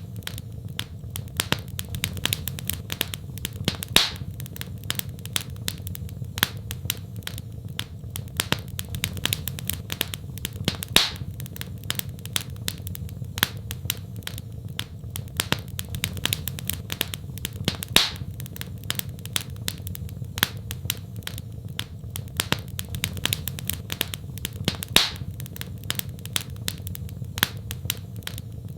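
Wood fire crackling in a fireplace: a steady stream of small snaps with a louder pop about every seven seconds, over a steady low rumble.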